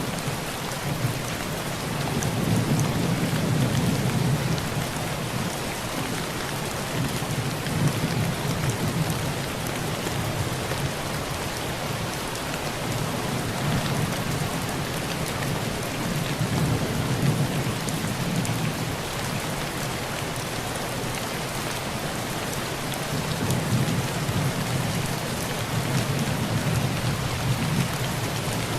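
Heavy rain pouring on a tin roof, a steady hiss, with low rolls of thunder that swell and fade three times: a couple of seconds in, around the middle, and near the end.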